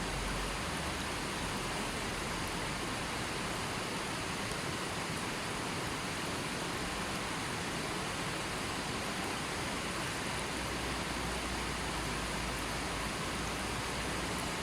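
River water flowing, a steady even sound with no breaks.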